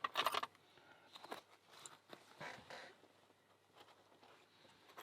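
Faint handling noise of small lock parts: a quick cluster of small clicks at the start, then scattered ticks and a soft rubbery rub, as the springs and pins of a gutted lock are handled with thick rubber diving gloves.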